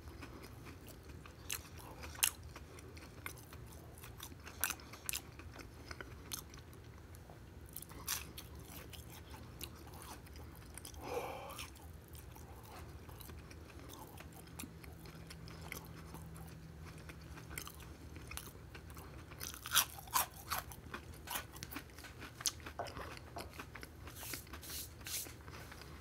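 Close-miked mouth sounds of a man biting into and chewing a crunchy, brown-crusted snack topped with candies: scattered sharp crunches and smacks, thickest about twenty seconds in. A faint steady low hum runs underneath.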